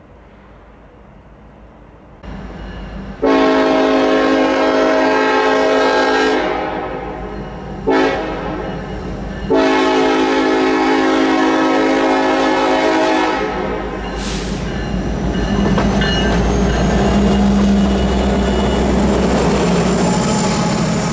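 Norfolk Southern diesel locomotive's air horn sounds for a grade crossing: a long blast, a short one, then another long blast, over the rising rumble of the approaching train. The locomotive then passes close by, its engine and the wheels of the coal hoppers rumbling and clacking over the rails.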